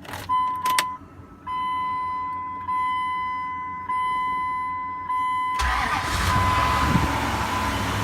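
Dodge Durango 4.7 V8 cold start: a couple of clicks, then a steady electronic warning chime pulsing about once a second, and about five and a half seconds in the engine cranks, catches and runs. It is running cold, when a knock from the central cylinders is heard.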